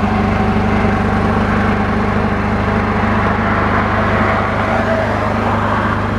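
Car engine and road noise heard from inside the cabin, a steady drone with a low engine hum.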